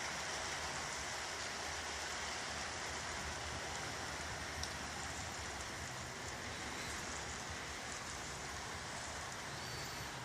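Steady, even background hiss with no distinct source, with one faint click about four and a half seconds in.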